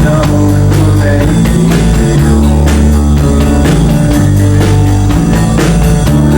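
Live rock band playing: drum kit keeping a steady beat under sustained bass notes and electric guitar.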